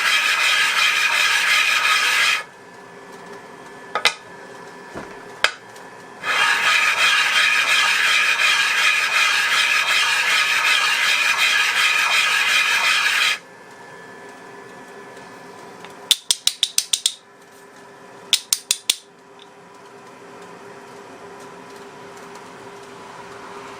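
Belt grinder with a worn fine-grit belt, a knife's handle scales pressed against it to finish their fronts: loud grinding for about two seconds at the start and again for about seven seconds in the middle. In between and afterwards the machine runs on more quietly, with a couple of sharp clicks and, in the second half, two quick runs of rapid ticks.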